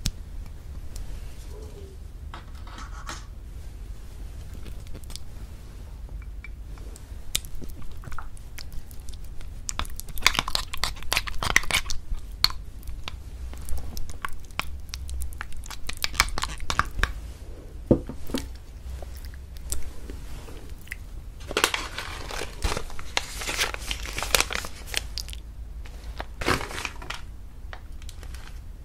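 Close-up crinkling and tearing sounds, in irregular runs of crackles that come and go, busiest in the middle and again later on.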